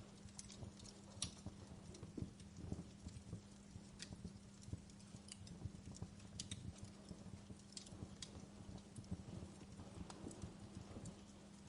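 Fireplace crackling, faint: irregular sharp snaps and pops from burning wood over a low rumble and a steady low hum.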